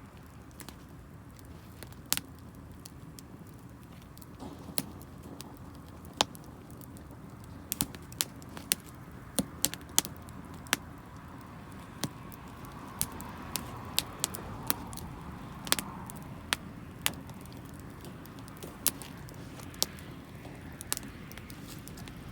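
Wood fire burning damp firewood, crackling with sharp irregular pops, about twenty of them and more frequent in the second half, over a low steady rumble.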